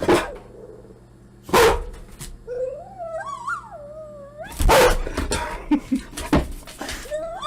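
Recorded dogs barking and whining, played over computer speakers: sharp barks at the start and about a second and a half in, a wavering whine that rises and falls between about two and a half and four and a half seconds, then a quick run of barks about five seconds in.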